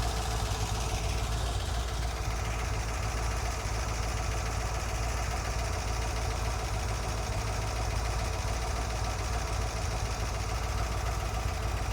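1963 Corvette's 327 cubic-inch, 340 hp solid-lifter V8 idling steadily, fed by an Edelbrock 650 CFM carburetor.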